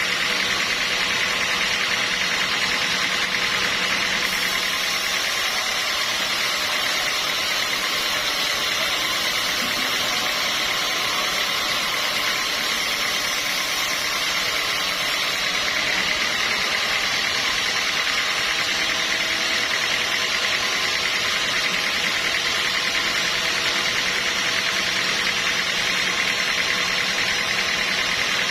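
Sawmill machinery running steadily, a constant engine-like drone with a dense hiss over it.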